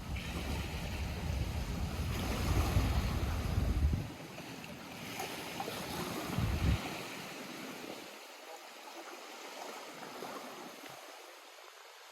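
Small lake waves lapping at the shore, a steady wash of water. Wind buffets the microphone with a low rumble for the first four seconds and again briefly about six and a half seconds in, then the sound settles quieter.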